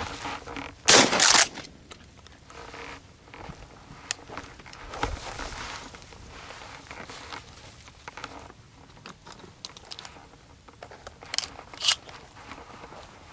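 A loud shotgun blast about a second in, then footsteps crunching on dry ground, with two sharp clicks near the end.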